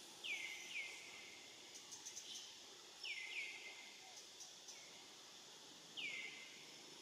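A bird calling in forest: short notes that sweep quickly downward in pitch, twice in quick pairs and once more near the end, over a steady high hiss.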